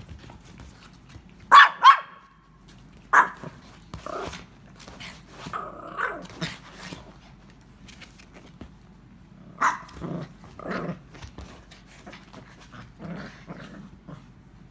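A dog barking in short separate barks: two quick loud ones about a second and a half in, another about three seconds in and one near ten seconds, with quieter dog sounds in between.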